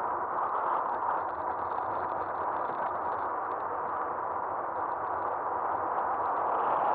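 Steady riding noise from an Aostirmotor S17 e-bike, picked up by a camera mounted on the bike's front end: an even rush of wind and tyre noise with a faint steady whine.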